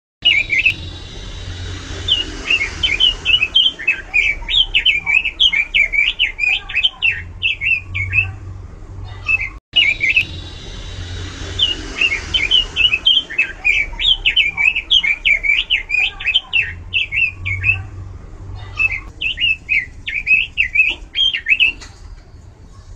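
Pekin robin (red-billed leiothrix) singing loud, rapid warbling phrases of quick rising and falling notes. A faint low hum sits beneath the song. The song cuts out for a moment about ten seconds in and the same passage starts over.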